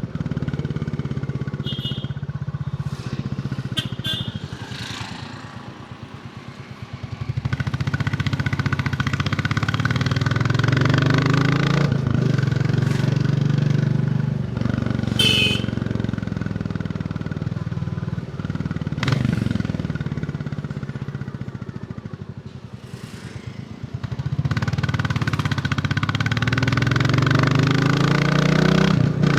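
Royal Enfield Bullet 350's single-cylinder engine running under way on the road. It eases off twice, about five seconds in and again past twenty seconds, and pulls back up to speed each time.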